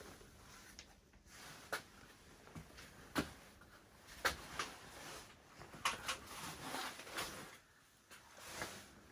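Scattered light knocks and clicks, about half a dozen, with soft rustling between them.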